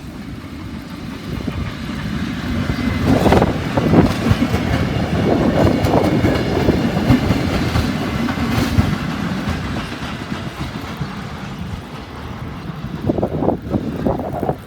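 Suburban electric train passing close by at speed. The wheels clack over rail joints in a rush of noise that peaks a few seconds in and eases off, with another run of clacks near the end.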